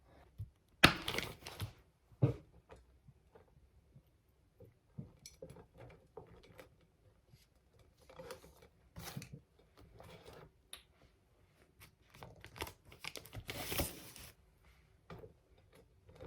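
Food wrapping rustling and crinkling, with small knocks and clicks, while ham and butter are handled and put into a halved baguette. The loudest crinkles come about a second in and again near the end.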